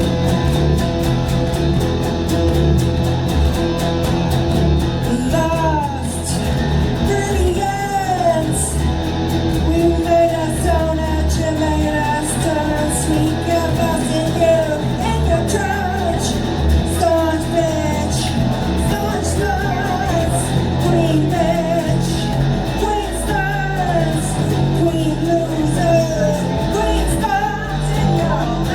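Live band playing a rock song with guitar, bass and drums, and a voice singing over it from about five seconds in.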